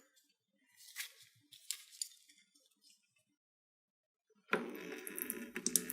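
A few faint metallic clinks as the oil drain on the engine's sump is worked. About four and a half seconds in, a steady rush with small ticks starts: engine oil beginning to drain from the Command PRO V-twin's sump.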